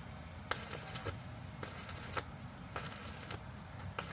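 Metalwork on an iron gate: irregular sharp metallic clicks and short crackles in clusters, roughly every half second.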